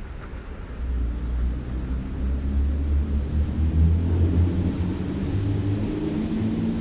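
A nearby motor vehicle's engine running, louder from about a second in, with a low pitch that steps up and down as it pulls away.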